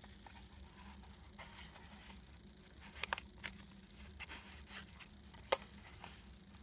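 Faint rustling and sliding of paper as the pages, envelope and tag of a handmade junk journal are handled. A few sharp light clicks come through, the clearest about three seconds in and again about five and a half seconds in.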